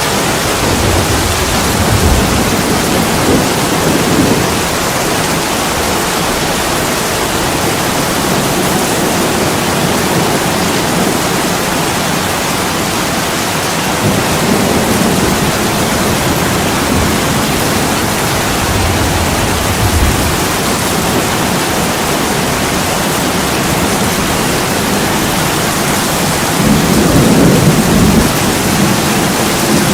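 Heavy rain pouring on a window, a dense steady hiss, with a few deep rumbling swells rising under it, the strongest near the end.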